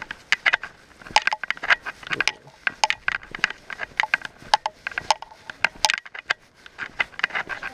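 Footsteps crunching and crackling over wet, icy ground, a dense irregular run of sharp clicks, several a second.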